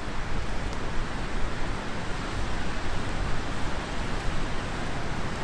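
Steady rushing noise of surf and wind at the beach.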